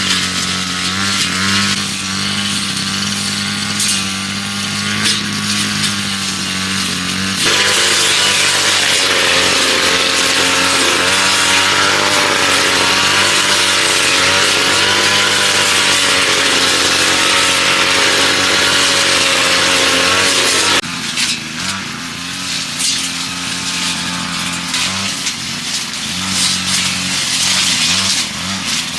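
A motor running steadily and loudly, its sound changing abruptly about seven seconds in and again about twenty-one seconds in.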